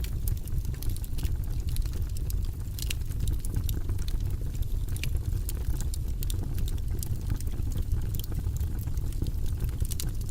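Wood fire burning in a fireplace: a steady low rumble of flames with frequent sharp crackles and pops at irregular moments.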